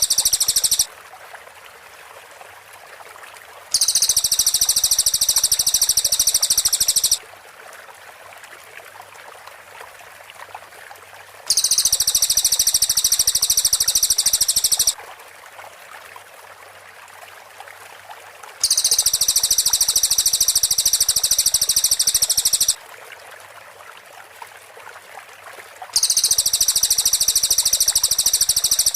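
Cililin bird song in bouts of rapid, tightly packed high-pitched notes, the 'rapid-fire' style prized for training murai batu. Each bout lasts three to four seconds and repeats about every seven seconds, with a steady hiss in the gaps.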